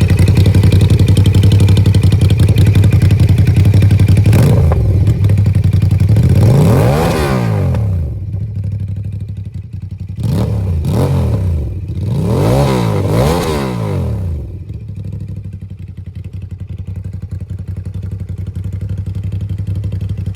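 Ducati SuperSport L-twin engine through an Austin Racing aftermarket exhaust, running loud and steady, then revved up and back down once, then blipped three times in quick succession before settling back to a quieter idle.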